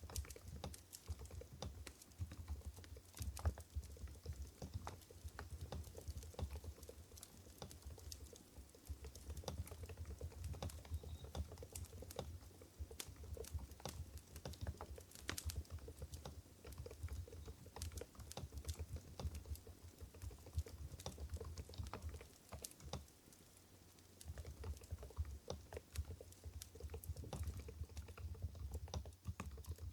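Typing on an Mstone Groove GV10 keyboard with low-noise 45 g Coral switches: a steady run of soft keystrokes, with a short pause about two thirds of the way through.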